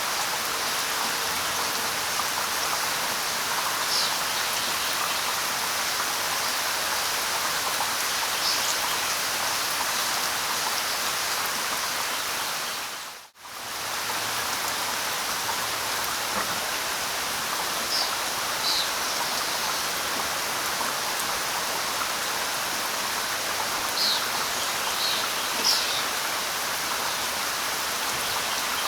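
Steady light rain pattering, with short high bird chirps now and then, several close together near the end. About halfway through the sound briefly fades almost to silence and comes straight back.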